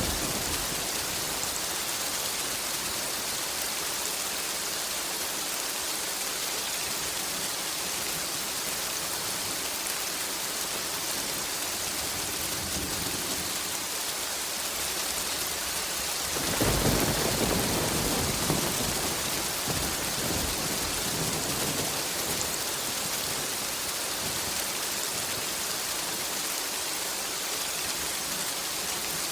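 Steady rain hissing, with a rumble of thunder that breaks in suddenly just past the middle and rolls away over a few seconds.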